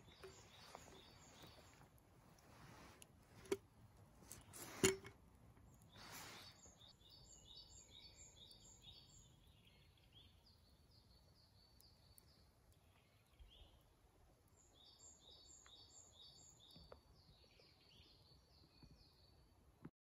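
Faint songbird song: a quick run of high, evenly repeated notes, heard twice, with a few lower notes between. Before the song, two sharp metal clinks about a second and a half apart as the kettle is handled over the fire grill.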